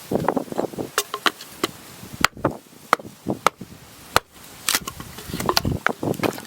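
Repeated chopping strikes, a blade hitting at uneven intervals: a dozen or so sharp knocks mixed with duller thuds.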